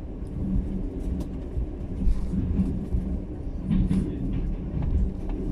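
Passenger train in motion: the steady low rumble of the wheels on the rails, with scattered small clicks and knocks.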